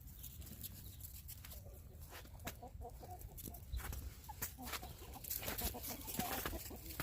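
Chickens clucking in short, scattered calls, mixed with frequent sharp clicks and crunches.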